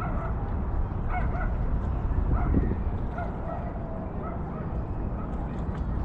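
A dog giving several short, high-pitched barks and whines over steady wind rumble on the microphone.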